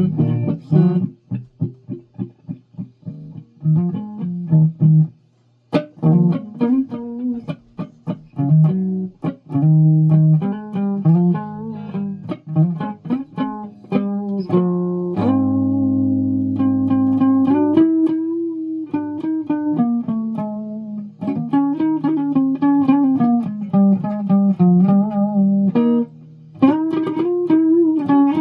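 Guitar played note by note in a picked melodic line, with a chord let ring for a couple of seconds about halfway through.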